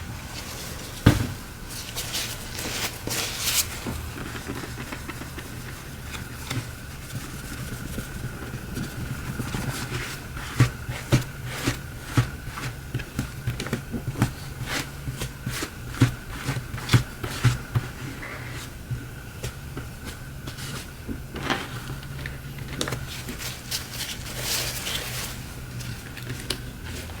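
Many small, irregular clicks and taps of hand tools working on a Samsung Galaxy S7 edge's cracked screen glass during glass removal, over a steady low hum.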